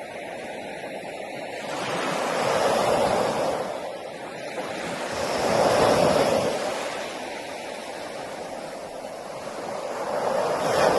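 Ocean waves breaking and washing on a beach: a steady surf, swelling three times as waves come in and ebbing between them.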